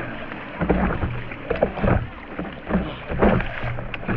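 Kayak paddle strokes in lake water: repeated short splashes and swishes, several in a row.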